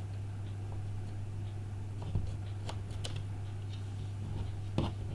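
A few small, sharp clicks and taps of small hand tools on tiny phone parts and screws, about four in the second half, over a steady low hum.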